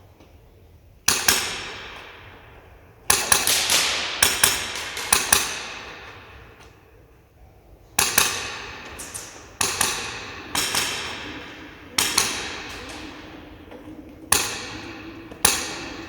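Airsoft HK416 replica with a Polarstar Kythera HPA engine firing semi-automatic shots without a suppressor: about a dozen sharp reports at irregular intervals, some in quick pairs, each ringing out for about a second.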